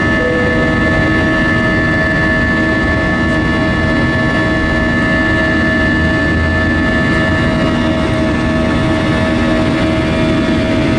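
Airbus A320-232 cabin noise: a steady drone of the twin IAE V2500 turbofan engines and airflow, with several steady whining tones over the rumble.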